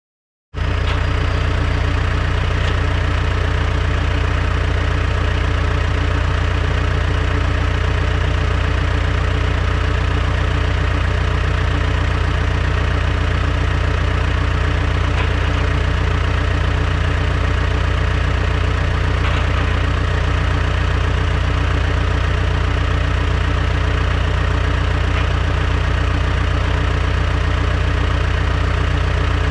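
Diesel engine of a piece of heavy earthmoving equipment running steadily at a constant speed. The sound cuts in abruptly about half a second in.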